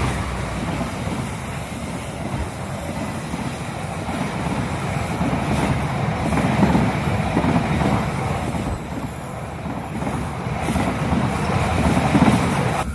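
Argo Lawu passenger train running past, a steady rumble of wheels on the rails.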